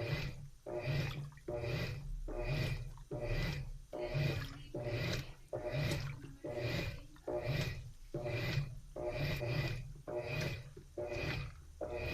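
Washing machine agitating its load in water during the wash, a rhythmic swish repeating about one and a half times a second as the motor drives the wash action back and forth.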